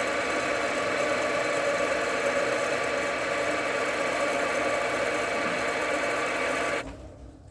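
JFMT metal lathe running steadily while turning a tough steel stud, a constant machine hum with a steady whine; it stops abruptly near the end.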